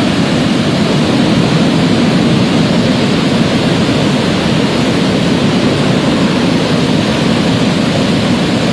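Swollen Swat River in flood, its floodwater rushing in a loud, steady roar of noise.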